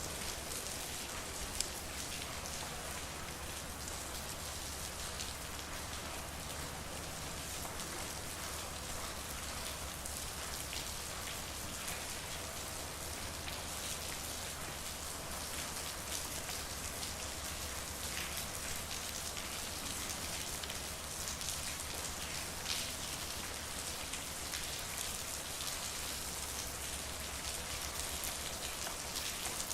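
Steady rain falling on a street, with many separate drops ticking on hard surfaces and a low steady hum underneath. One sharper tick comes about a second and a half in.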